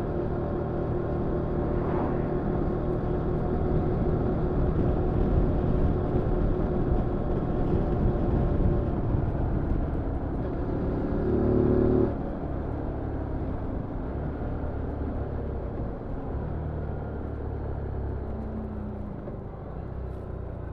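Zontes G1 125 scrambler's single-cylinder 125 cc engine running under way. It climbs in pitch, then drops back suddenly about two-thirds of the way through and runs on quieter.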